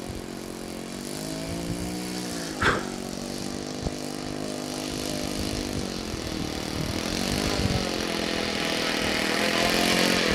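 Radio-controlled model airplane in flight, its engine and propeller buzzing with a pitch that swings up and down as it turns and passes, growing louder toward the end.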